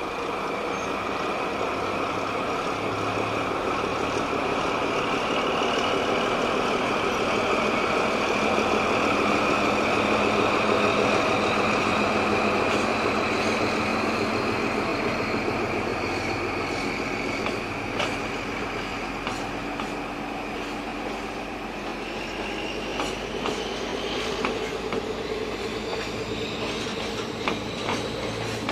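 Freight train rolling slowly past behind a KRD5 diesel locomotive, followed by container and tank wagons. A steady rumble of running gear, loudest mid-way, carries a thin high whine from the wheels. From about two-thirds of the way through, sharp clicks come as wheels cross rail joints.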